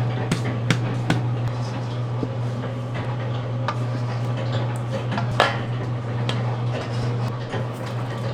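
Kitchen work: scattered clinks and knocks of utensils and dishes, the sharpest a little past halfway, over a steady low hum.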